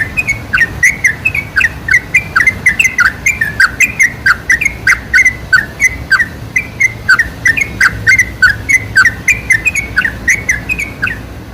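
Yellow-vented bulbul (trucukan) singing: a fast, unbroken run of short, bright whistled notes, about four a second, that stops near the end.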